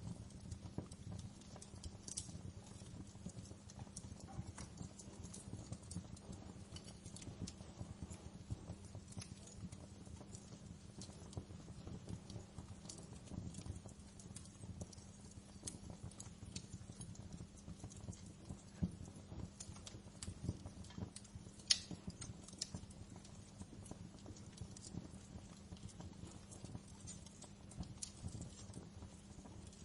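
Wood fire crackling in a fireplace: a steady scatter of small snaps and pops, with a couple of louder pops about two-thirds of the way through, over a low steady hum.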